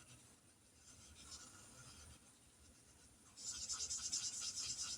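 Colouring in boxes on a paper chart: fast, scratchy back-and-forth strokes of a pen on paper. They start about three and a half seconds in, after a few near-silent seconds.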